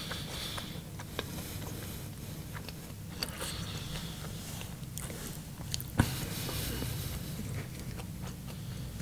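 Close-miked chewing and mouth sounds with scattered small clicks, and one sharp knock about six seconds in.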